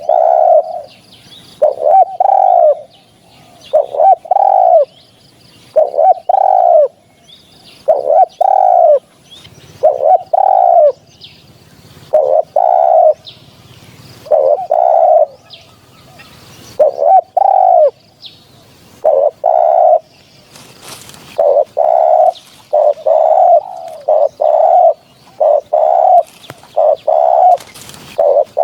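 Spotted dove cooing over and over, a low two-part coo about every two seconds, coming closer together in the second half. Faint high chirps of other birds sit above it.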